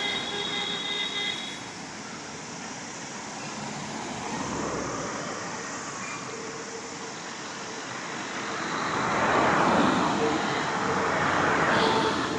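Road traffic: a vehicle horn is held for about the first second and a half, then vehicles pass, their noise swelling twice, louder near the end, with a steady engine hum in the last few seconds.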